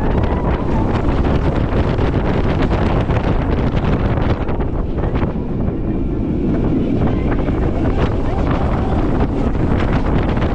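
Wind rushing over the microphone and the rattle of the Pantheon launched roller coaster's train running along its track at speed.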